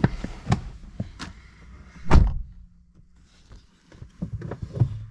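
A 2012 Infiniti G37S's door is shut with a heavy thunk about two seconds in, after a few clicks. The outside rumble drops away once the door is closed, and small handling knocks follow.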